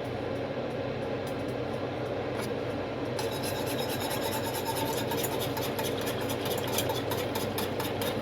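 Whisk scraping and stirring in a pot of sugar-water pickling brine on the stove, a rasping noise over a steady hum that turns denser and crisper about three seconds in.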